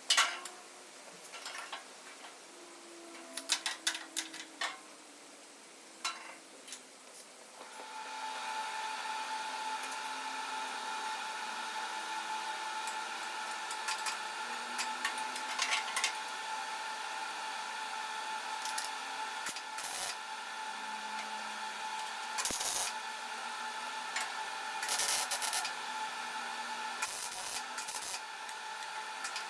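A few clicks and knocks, then about eight seconds in a small power tool starts and runs steadily with a whine, with short louder scraping bursts now and then.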